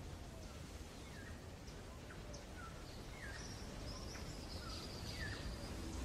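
Small birds calling faintly over a steady low background rumble: short falling chirps repeated every half second or so, with a longer high trill in the middle.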